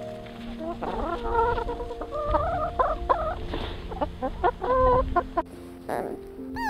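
Chickens clucking, a run of short calls that rise and fall, over soft background music. The clucking breaks off suddenly about five and a half seconds in.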